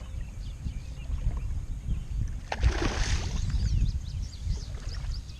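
Wind rumbling on the microphone, with one splash of water about two and a half seconds in and small birds chirping in the background.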